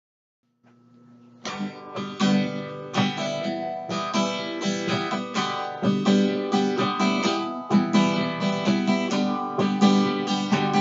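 Acoustic guitar strummed in a steady rhythm, the instrumental intro of the song; it starts faintly and the full strumming comes in about a second and a half in.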